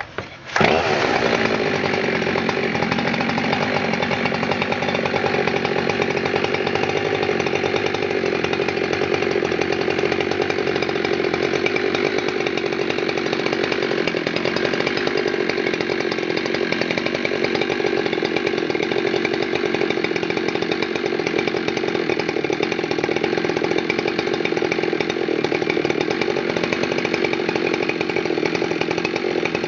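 Husqvarna 372 XPW two-stroke chainsaw running steadily out of the cut. It comes in suddenly about half a second in, then holds an even engine note throughout, sounding healthy.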